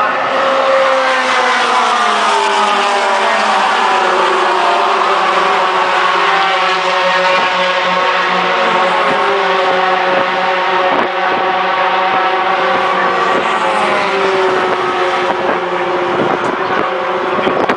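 Racing pickup trucks' engines running hard at race pace, several engine notes heard at once, their pitches drifting slowly down and picking up again.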